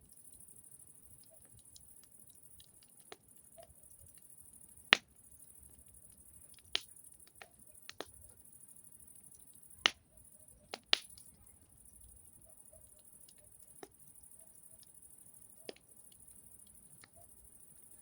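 Campfire wood crackling: sharp, irregular pops over a quiet background, the loudest about five, ten and eleven seconds in.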